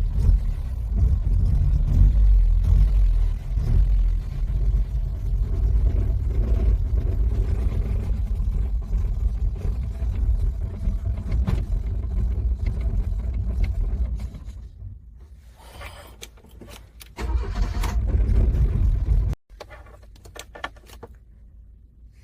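A car's starter cranking a cold engine that does not catch: one long crank of about fourteen seconds that then stops, and after a pause of a few seconds a second short crank of about two seconds that cuts off suddenly.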